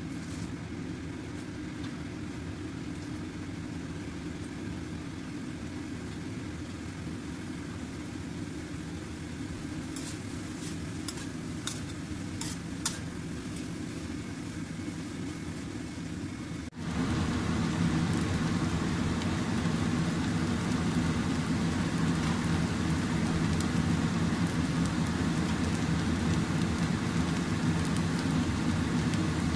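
Rice vermicelli and vegetables sizzling as they are stir-fried in a stainless steel wok, over a steady low rumble, with a few sharp clicks of the spatula against the metal around the middle. The sound suddenly becomes louder about two-thirds of the way through.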